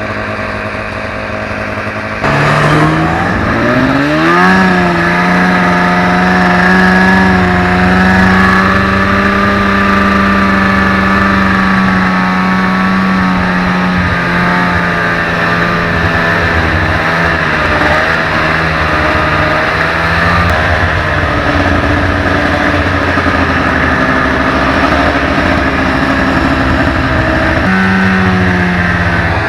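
Two-stroke snowmobile engine revving up about two seconds in, then running steadily at high revs under way. It eases off about two-thirds through and revs up again near the end.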